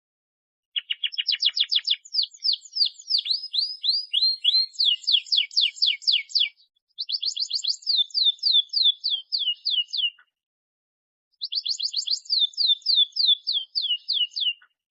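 Canary singing in fast rolling trills: three long phrases of rapidly repeated, downward-sliding high notes, the note changing type several times within each phrase. Each phrase stops abruptly into complete silence before the next begins.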